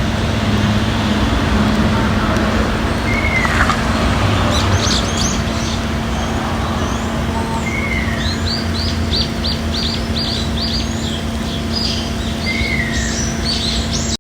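Ruddy kingfisher calling: a falling whistled call, three times at intervals of about four to five seconds. Other small birds chirp in quick high series through the second half, over a steady low hum.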